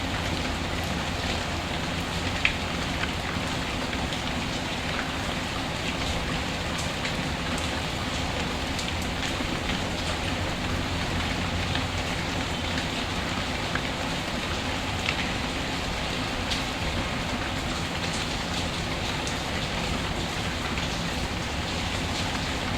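Steady rain falling, a continuous even hiss, with a few sharp ticks scattered through it, the clearest about two seconds in.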